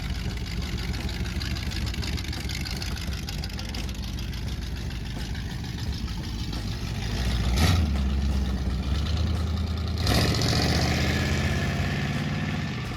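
Car engine running during a ride, steady at first, then louder in the second half, with two sudden surges about halfway through and a little later.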